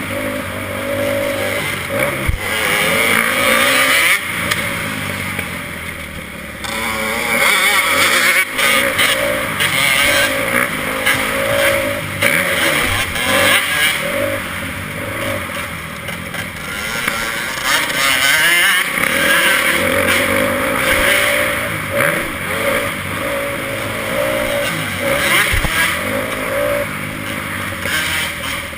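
Motocross bike engine revving hard and backing off again and again, its pitch and loudness rising and falling.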